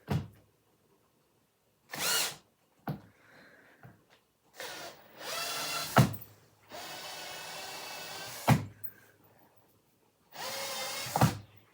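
Cordless drill-driver backing long screws out of a wooden chair base in several short runs, the motor whining up to speed each time. Sharp knocks and clicks come between the runs.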